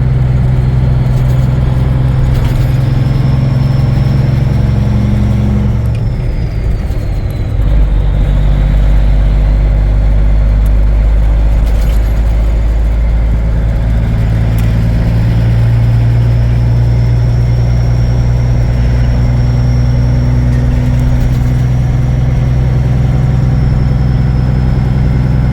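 Cummins diesel engine of a 1980s Peterbilt 359 truck running steadily on the road. About six seconds in the sound drops briefly, then comes back with a deeper, stronger low note.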